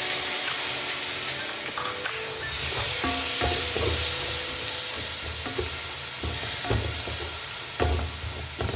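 Onion-tomato biryani masala sizzling in a hot pan, with ground mint and coriander paste just poured in, while a spoon stirs it with irregular scrapes and knocks against the pan.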